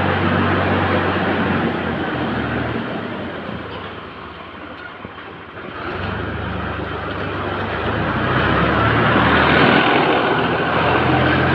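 An engine running steadily with a low hum and a noisy roar. It fades down about four seconds in and comes back up a couple of seconds later, as if the machine moves away and returns.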